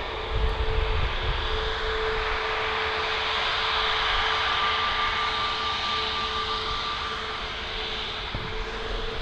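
Jet airliner engines running, a steady rushing noise with a held whine, joined by a higher whine for a few seconds mid-way; a brief low rumble comes about half a second in.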